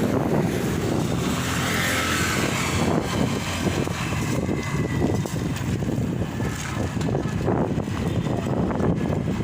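Road vehicle noise with wind buffeting the microphone: a steady, rumbling din without pauses.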